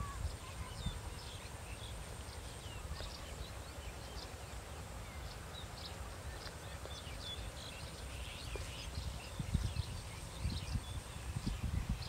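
Small birds chirping in many short, scattered calls over a steady low rumble, which turns into stronger low thumps in the last few seconds.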